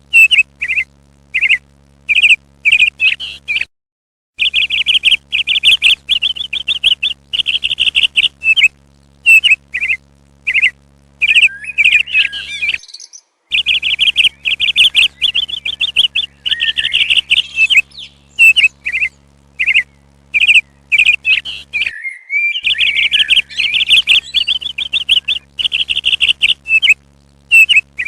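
Parrots chirping in rapid, repeated trilled bursts, with a few harsher, scratchier calls about halfway through and again near the end, over a steady low hum. The sound cuts out completely for a moment three times.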